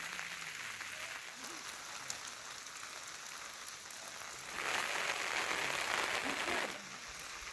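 Steady rain hiss, with a louder rush of noise for about two seconds a little past halfway.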